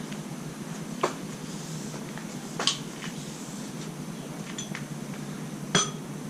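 Three sharp metallic clinks of hand tools being handled, the last one loudest with a short ring, over a steady low hum.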